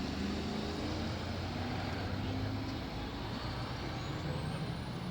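Heavy truck diesel engines running steadily, with a faint high whistle rising near the end.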